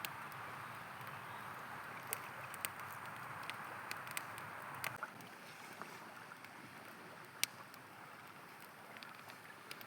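Flowing river water rushing steadily, with scattered sharp crackles and pops from a wood campfire, the loudest pop about seven and a half seconds in.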